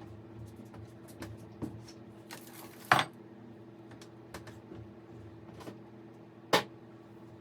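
Scattered sharp clicks and knocks of hard objects, with two louder clacks about three seconds and six and a half seconds in, over a steady low hum.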